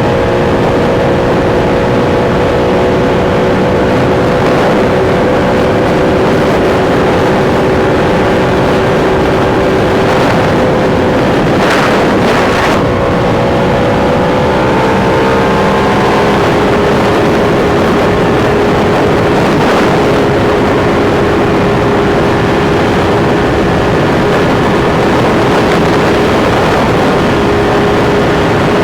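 Sport motorcycle engine running at a steady cruising speed on the highway, heard over heavy wind rush on the onboard microphone. Its note eases slightly lower about halfway through.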